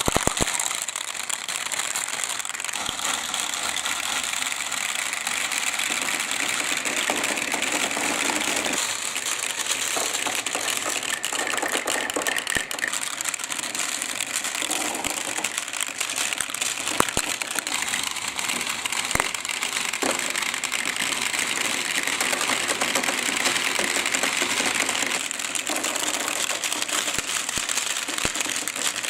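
Water running steadily down a twisting marble-run track, carrying balls along with it, with a few light clicks of balls knocking against the track.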